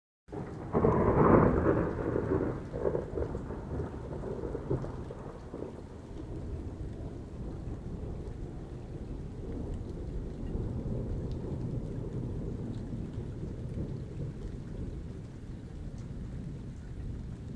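Thunderstorm: a loud thunderclap about a second in, rumbling away over the next few seconds, over steady falling rain.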